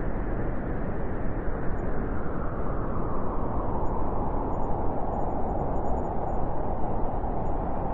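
Strong wind blowing steadily, a dense rushing with a heavy low rumble; a higher, hollower band of the rush grows stronger in the second half.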